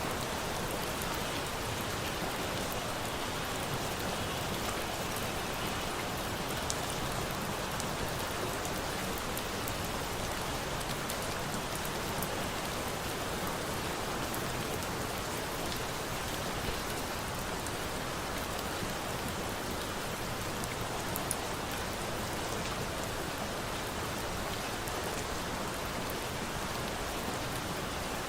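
Steady rain, a dense even patter, with a few faint pops from a crackling wood fire.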